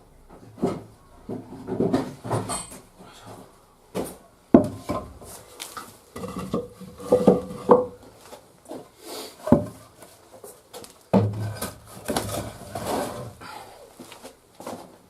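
Firewood logs knocking and clattering together as they are handled, a run of irregular wooden clunks and thuds with a few sharper knocks.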